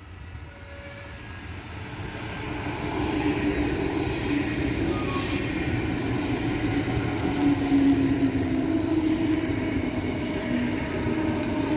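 Freight train approaching and passing close by. Its rumble and wheel noise grow louder over the first three seconds, then run on steadily with a hum as the wagons roll past.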